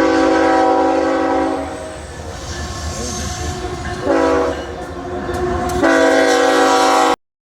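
Locomotive multi-chime air horn sounding a long blast, a short one and another long one, the pattern of the end of a grade-crossing signal, over the low rumble of the passing train. The sound cuts off suddenly near the end.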